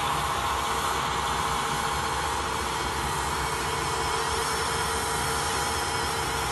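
Diamond bead wire saw cutting stone, running steadily: a continuous machine drone with a steady tone and an even hiss that does not change.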